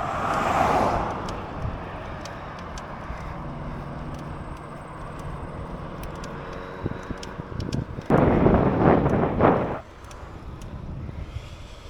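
Wind rushing over the camera microphone while riding a bicycle on the road, with a louder stretch of buffeting about eight seconds in.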